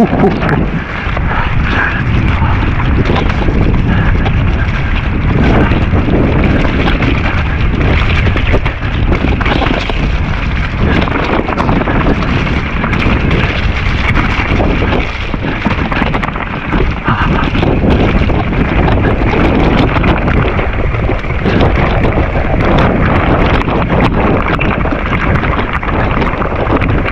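Wind buffeting the action camera's microphone during a fast ride on a Nukeproof Giga mountain bike, with tyre noise and frequent knocks and rattles from the bike running over rough trail.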